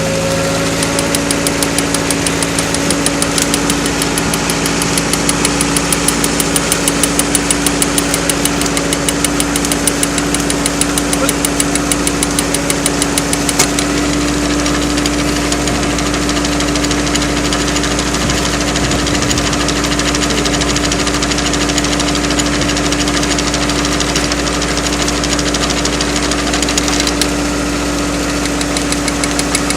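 Small engine of a firewood log splitter running steadily at a constant speed, with a fast, even beat.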